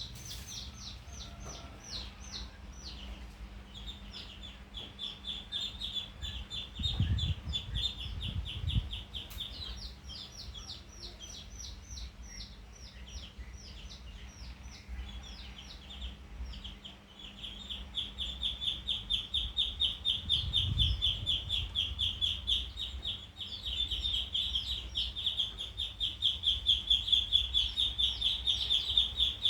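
A duckling peeping: rapid, continuous high-pitched peeps, getting louder in the last third, with a few low thumps in between.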